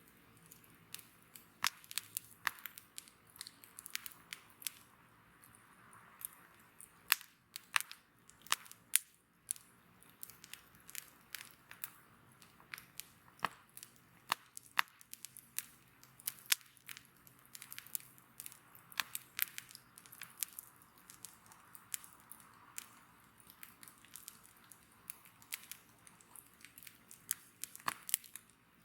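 Wood fire crackling: irregular sharp snaps and pops, several a second, over a low hiss of burning.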